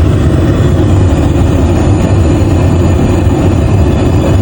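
Steady loud rumble of a jet airliner's cabin noise, the engine and airflow drone heard from inside the passenger cabin.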